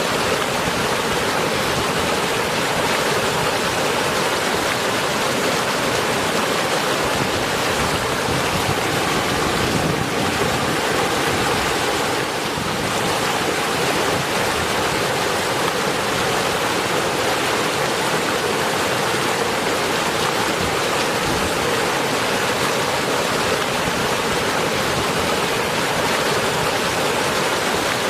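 Steady rain falling, a dense, even hiss that holds throughout.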